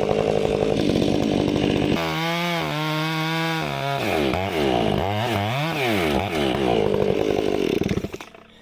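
Two-stroke chainsaw cutting wood, its engine pitch repeatedly rising and falling under load, with a steady high-revving stretch about two seconds in. The engine stops or drops away abruptly near the end.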